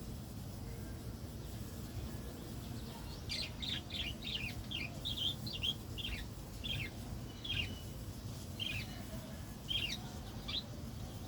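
Small birds chirping. A quick run of short, sharp chirps starts a few seconds in and thins to single chirps about a second apart, over a low, steady background rumble.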